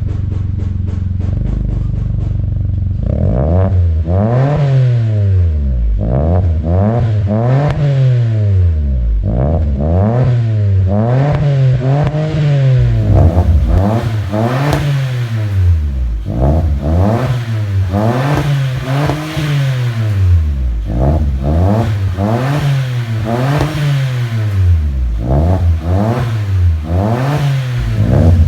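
Toyota Raize's three-cylinder engine through an aftermarket catback exhaust, idling steadily and then revved again and again, the pitch climbing and falling back about once every one to two seconds.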